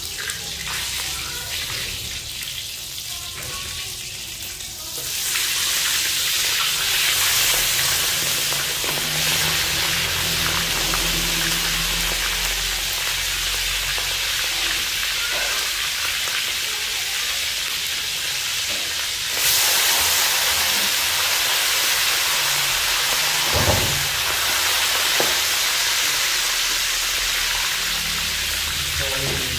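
Whole frogs deep-frying in hot oil in a wok: a steady loud sizzle that jumps louder about five seconds in and again near twenty seconds. A couple of knocks of a utensil against the wok come near the end.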